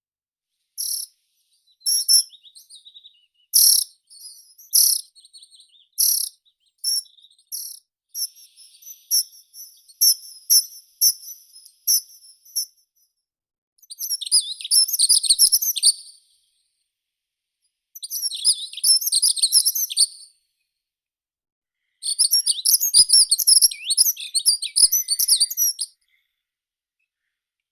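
Meadow songbirds singing: a run of short, sharp chirps over the first dozen seconds, then three fast warbling song phrases of two to four seconds each, separated by silent pauses.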